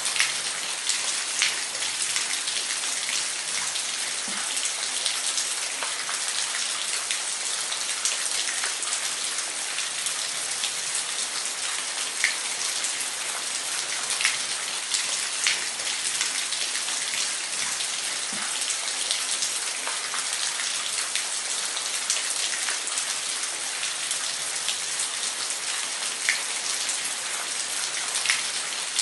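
Waterfall: a steady hiss of falling water, with frequent sharp splashes scattered through it.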